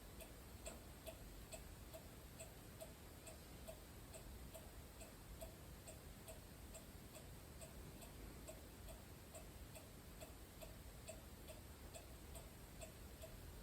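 A clock ticking faintly in a quiet room, a steady, even tick a little faster than twice a second.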